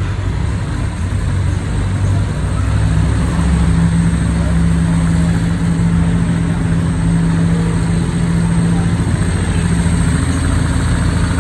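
Large vintage roadster's engine idling, low and steady.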